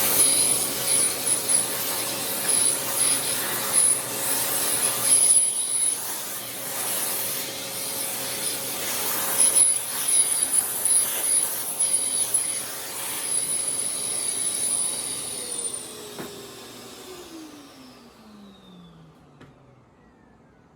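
Shop vacuum sucking wood chips out of a freshly routed groove, its rushing noise rising and dipping as the nozzle moves, then switched off about three-quarters through and winding down with a falling whine.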